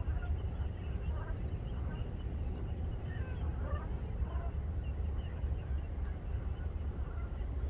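Steady low rumble with many faint, short bird calls scattered over it.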